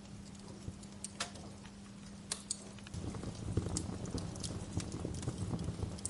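Wood fire crackling, with sharp pops at irregular moments. About halfway through, a louder low rumble of the burning fire sets in beneath the pops.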